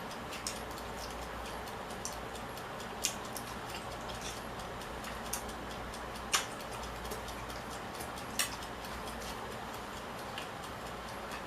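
A person eating: irregular sharp clicks and smacks, with a few louder ones about three, six and a half and eight and a half seconds in, over a steady low hiss.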